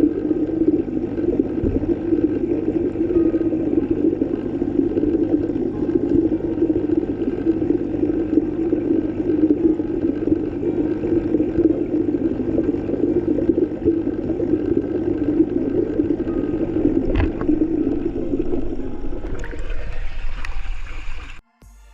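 Steady, muffled rush of water as heard underwater, with a single faint click about 17 seconds in; it cuts off abruptly just before the end.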